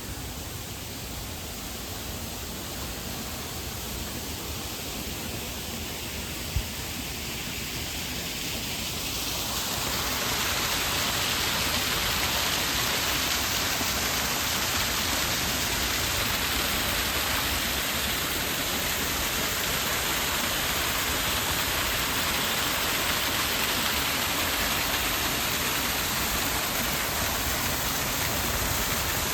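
Rushing water of a small waterfall, a steady hiss that grows louder about ten seconds in and then holds level. A single sharp click comes a few seconds before the rise.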